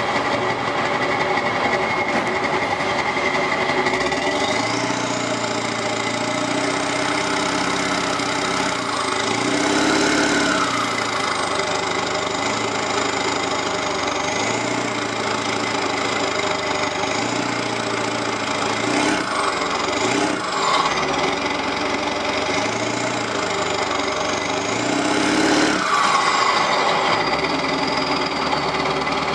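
Straight-piped 7.3 L Powerstroke V8 turbo-diesel running through 6-inch stacks, revving up and easing off several times. A high whine rises and falls with the revs.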